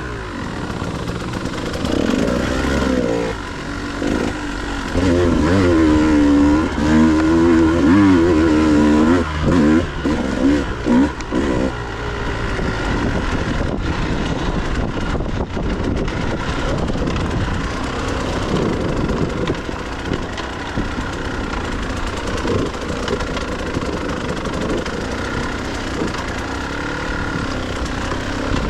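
Dirt bike engine revving up and down over and over for the first twelve seconds or so, then running more steadily.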